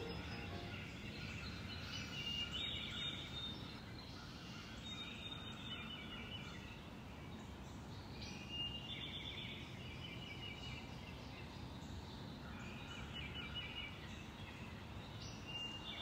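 Faint birdsong: short repeated chirping phrases every few seconds over a steady low hum of outdoor background noise.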